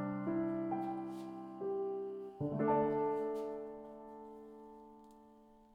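Soft piano background music: a few slow notes, then a chord about two and a half seconds in that fades away gradually.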